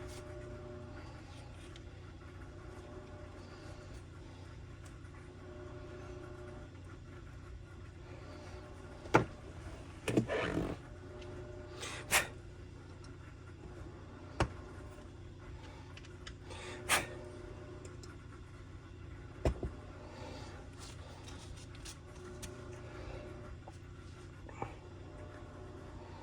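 Scattered sharp clicks and knocks of tools and saw parts being handled on a workbench, with a short rustle, over a steady low hum.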